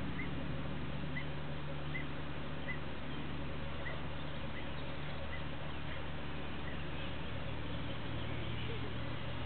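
Steady low drone of a radio-controlled model airplane's motor, with a short high chirp repeating about every three-quarters of a second through the first part, like a small bird calling.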